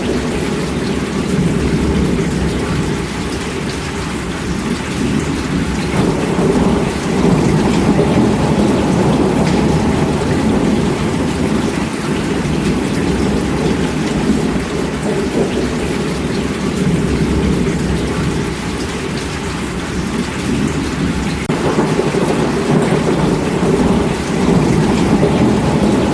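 Heavy, steady rainfall with a deep rumble of thunder beneath it. It grows louder about six seconds in and again late on.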